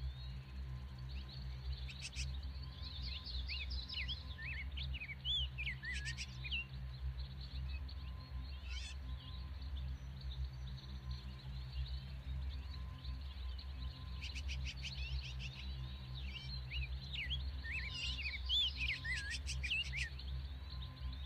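Wild birds chirping in two bouts of quick rising and falling calls, over a steady low hum.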